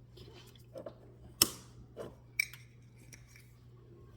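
Metal kitchen utensils clicking and clinking against cookware: a few sharp, separate clinks, the loudest about a second and a half in with a brief ring, and a shorter ringing clink about two and a half seconds in.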